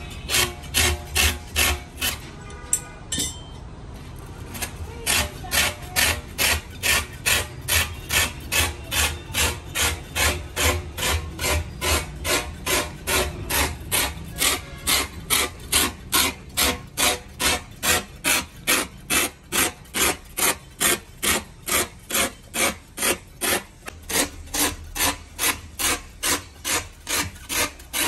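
Rhythmic hand-rasping strokes on a truck tyre's rubber, about two a second, with a short pause about three seconds in.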